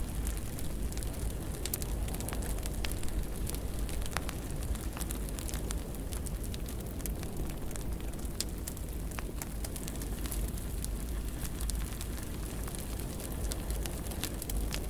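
Fire crackling in a fireplace: a steady low rumble of flames with scattered sharp pops and crackles throughout.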